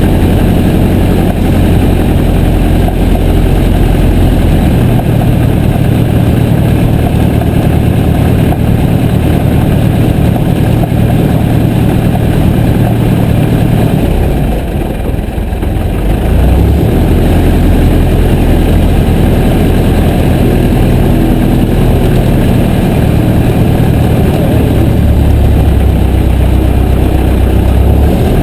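Piper J3 Cub's light-aircraft engine and propeller running steadily, a loud continuous drone with rushing noise. About halfway through the sound dips briefly and the engine note shifts before it settles again.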